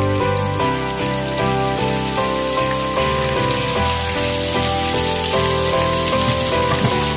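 Chopped onions and pork sizzling in hot oil in a frying pan: a steady crackling hiss. Background music with held notes that change every second or so plays over it.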